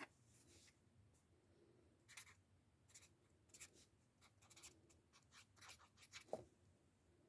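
Faint, scattered scratching and tapping of paper and stationery being handled, with one slightly louder tap near the end.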